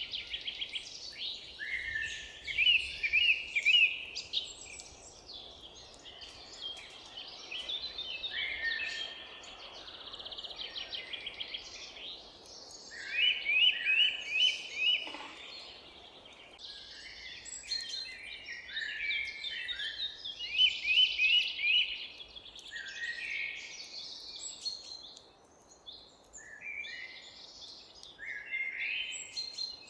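Several forest songbirds singing and calling over one another: repeated rapid note series, trills and buzzy phrases, loudest in bursts of a couple of seconds, over a faint steady outdoor hiss.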